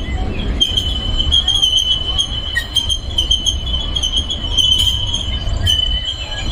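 Disneyland Railroad steam train running, with a steady low rumble of the cars on the track and a continuous high, slightly wavering squeal of the wheels.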